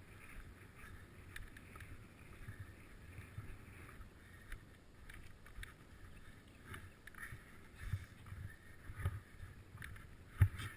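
Bicycle ridden uphill on a road: low tyre and wind rumble with scattered rattles and clicks from the bike, and one sharp knock near the end.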